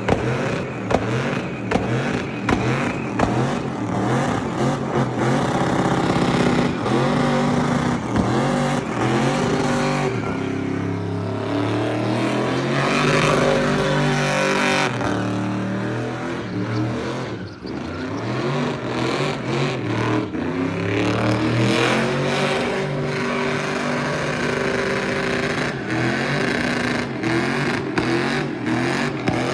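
Car engine revving hard over and over, pitch climbing and dropping, held at a steady high pitch for a few seconds midway.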